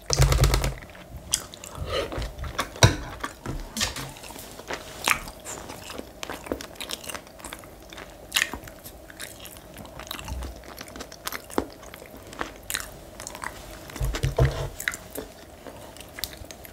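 Close-miked eating: biting, chewing and crunching of food, a steady run of small wet clicks and crunches, with a couple of dull low thumps at the start and near the end.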